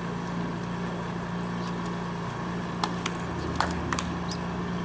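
Steady mechanical hum, with a few sharp clicks about three to four seconds in.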